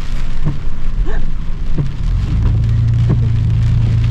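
Heavy rain pouring on and around a car, with a steady low hum of the car coming in about halfway through.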